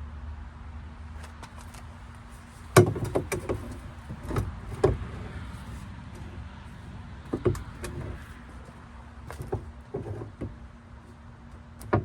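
Irregular metallic knocks and clanks as a hammer works against the crushed sheet metal of a Dodge Dakota's jammed door: a quick run of knocks, then scattered single ones. The door is stuck because it was crushed up into the rocker.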